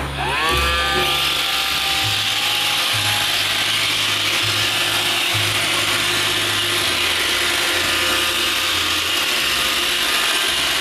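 iRobot Roomba 530 robot vacuum starting a cleaning run: its motors whine up in pitch over the first second, then the vacuum and brush motors run steadily with a mechanical whir.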